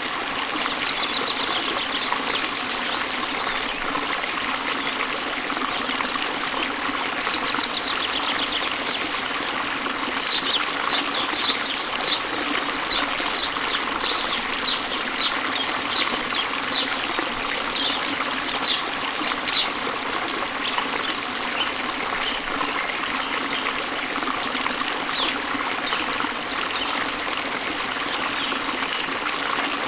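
Steady rush of water falling and flowing at a waterfall. Over it, a bird gives a run of short, high chirps, about two a second, from about a third of the way in until past the middle, with a few scattered calls before and after.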